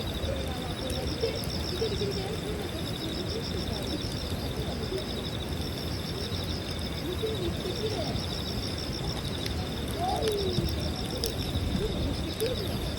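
Insects trilling in a steady, rapidly pulsing high-pitched chorus over a low, even rush of outdoor noise, with a few faint clicks.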